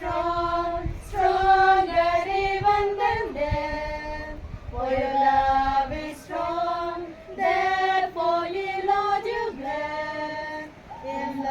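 A group of women singing a Christian hymn together without instruments, in phrases of long held notes.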